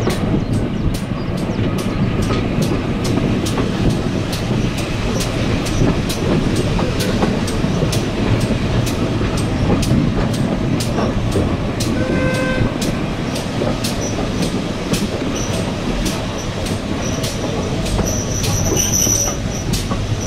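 Heritage passenger train running along the track, heard from an open carriage window: a steady rumble with regular clicks about two a second. About twelve seconds in there is a short whistle toot, and near the end a thin high wheel squeal.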